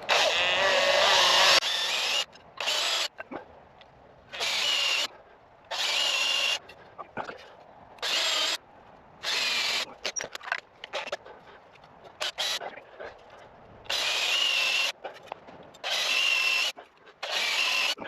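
Cordless drill boring holes in chestnut chair legs, run in about ten short bursts of half a second to a second and a half each, with a steady motor whine and short pauses between. The first burst is the longest and loudest.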